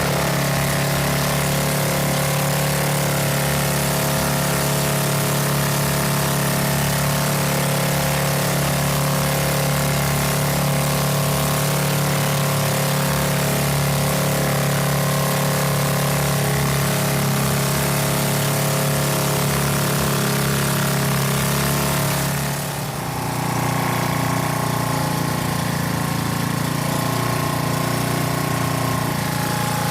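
Small motorboat engine running at a steady speed, then throttled back about three quarters of the way through, after which it runs on more slowly at a lower pitch.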